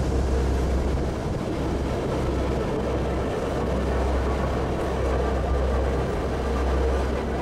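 Little Yellow Train (Train Jaune), an electric narrow-gauge train, running along the track with a steady rumble.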